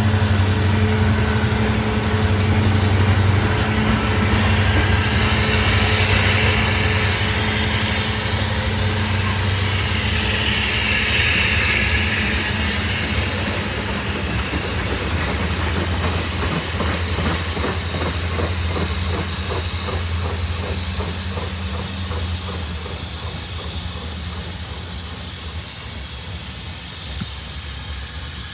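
A train rolling past: a locomotive engine's steady low hum over the rushing of the train, then from about halfway on a rapid, even clicking of wheels running over rail joints as the train rolls by, the whole sound slowly fading.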